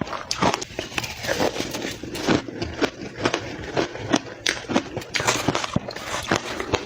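Close-miked chewing and crunching of soft, powdery crushed ice, with rapid, irregular crunches several times a second.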